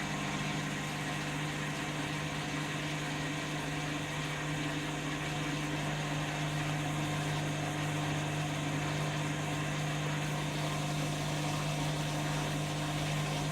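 Candy washing machine running with a steady, even hum, ahead of its final spin.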